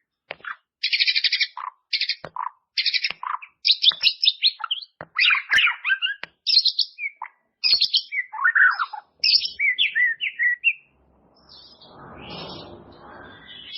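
White-rumped shama (murai batu) singing: a rapid string of short, varied phrases of fast trills, buzzy rattles and whistled slurs, separated by brief pauses. About eleven seconds in the song breaks off and a fainter, lower noisy sound fills the rest.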